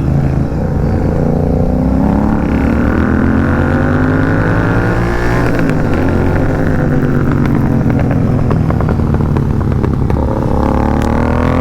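Royal Enfield 650 parallel-twin motorcycles with aftermarket exhausts, under load on the road. The engine note climbs, falls back about halfway through, climbs again and falls once more near the end, as the bikes accelerate through the gears.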